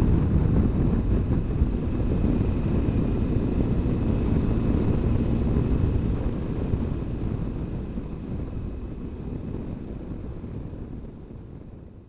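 Wind rushing over the microphone with a BMW R1200GS Adventure motorcycle's engine droning beneath, on the move at road speed, fading out near the end.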